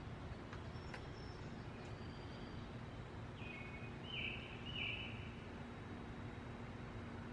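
A bird calling over faint outdoor background hiss. It gives three short, clear notes of about the same pitch, close together, a little past the middle, with a few fainter high peeps earlier.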